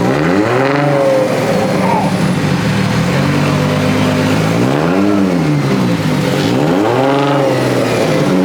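Car engine revving hard and repeatedly: the revs climb sharply at the start, settle into a steady high hold, then swing up and back down again about five and seven seconds in.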